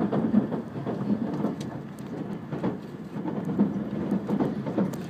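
E5 series Shinkansen train running, heard from inside the passenger car: a steady low rumble with frequent irregular thuds.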